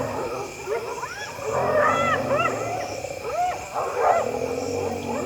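A pack of spotted hyenas mobbing a lion at its kill: many overlapping short yelping, arching calls rise and fall over a low growling beneath. It is the noisy, aggressive calling that hyenas use to chase a lion off its prey.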